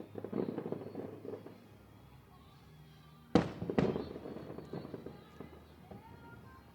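Aerial fireworks shells bursting: a spell of crackling near the start, then two loud bangs about half a second apart a little past halfway, each trailing off in crackle.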